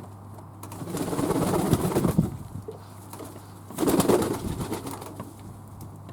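Fantail doves cooing: two low bouts, one about a second in lasting over a second, and a shorter one near the four-second mark.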